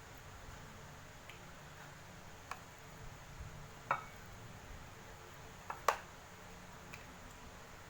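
Faint steady hiss with a few scattered light taps, the loudest about six seconds in.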